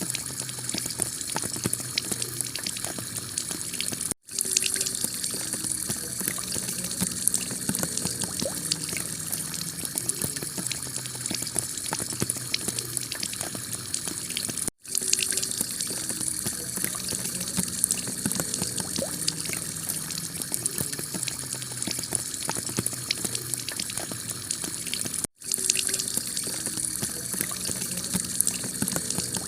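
Heavy rain pattering steadily on a tiled roof, a dense hiss full of small drop clicks. The sound cuts out for an instant three times, about ten seconds apart.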